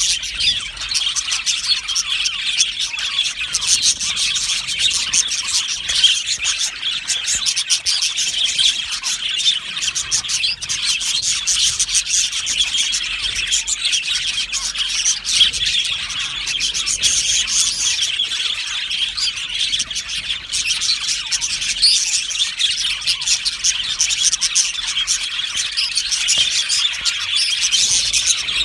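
A flock of budgerigars chattering and chirping continuously, many birds at once in a dense, unbroken warble.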